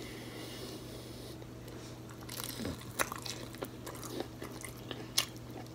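Crunching bites and chewing of batter-fried seafood. The first two seconds are quiet, then a few short, sharp crunches come, over a low steady hum.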